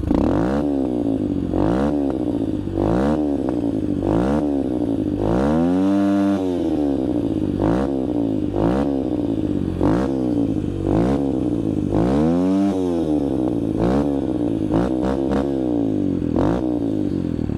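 Yamaha TTR 125 dirt bike's 125cc four-stroke single running through an FMF PowerCore 4 aftermarket exhaust, revved in quick throttle blips about every second, with two longer, higher revs about six and twelve seconds in.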